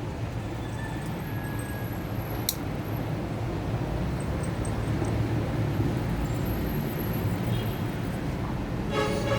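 Steady low rumble of road traffic, with a single sharp click about two and a half seconds in and a short pitched sound right at the end.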